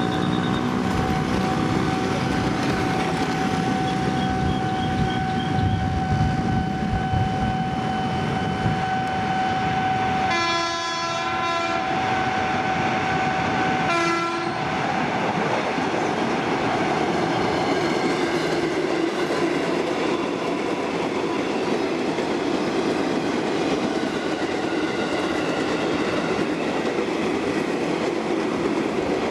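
JR 205-series KRL electric commuter train sounding its horn twice, a blast of about a second roughly ten seconds in and a short one about four seconds later, over a level crossing's steady electronic warning tone. The train then passes with its wheels clattering over the rail joints.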